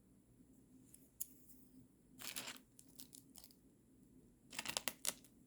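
Food packaging being handled and opened, crinkling and tearing in several short bursts, the longest near the end.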